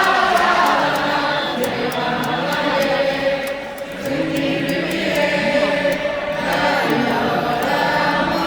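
Stadium crowd of baseball fans singing a cheer chant in unison, with short sharp hits through it.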